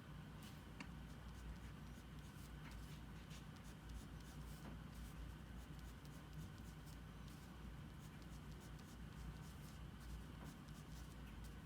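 Faint, quick strokes of a drawing tool scratching on paper, many short strokes in a row, over a steady low hum.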